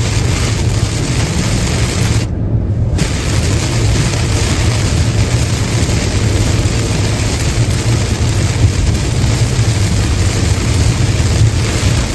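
Car driving on a highway in the rain: a steady low road rumble under an even hiss of rain and wet tyres. A little over two seconds in, the hiss cuts out for about half a second, then returns.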